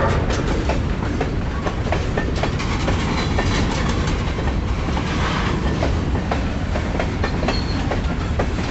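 Freight train rolling on the track: a steady low rumble with sharp, irregular clicks of the wheels going over rail joints.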